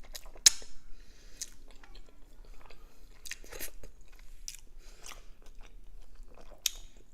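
Close-miked chewing of food, with scattered sharp wet mouth clicks and crunches, the loudest about half a second in.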